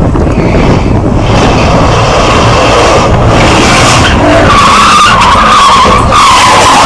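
A car's tyres skidding over loud road and engine noise, with a wavering tyre squeal setting in a little past halfway and holding to the end.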